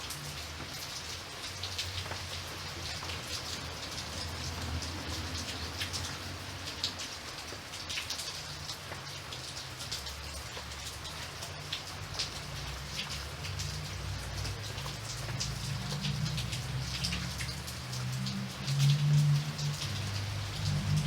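Steady rain falling, with many distinct drops heard through it. A low rumble underneath grows louder in the second half and swells briefly near the end.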